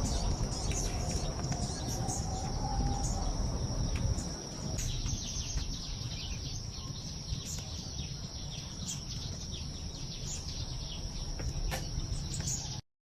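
Insects, likely crickets, trilling in a steady high chorus with a few faint chirps, over a low rumble of wind and waves on the shore; it all cuts off suddenly near the end.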